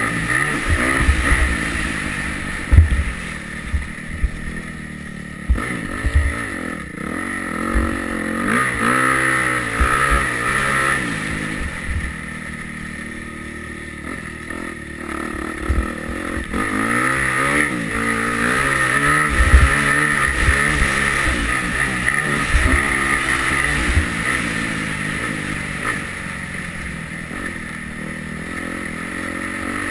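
Yamaha YZ250F motocross bike's single-cylinder four-stroke engine revving up and falling off again and again as it is ridden, with sharp low thumps.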